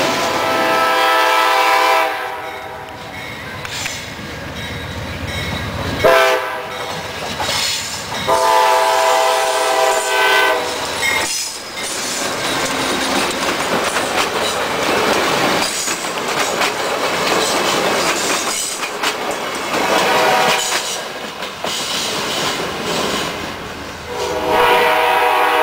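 Amtrak passenger train passing at speed, its cars rolling and clattering over the rails. The locomotive horn sounds several blasts: one early on, a short one about six seconds in, a long one near the ten-second mark, another around twenty seconds, and a last long blast near the end.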